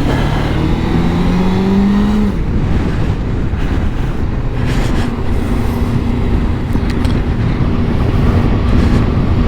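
Suzuki GSX600F's inline-four engine under way, its pitch rising for about two seconds as the bike accelerates, then holding steady, with steady wind noise.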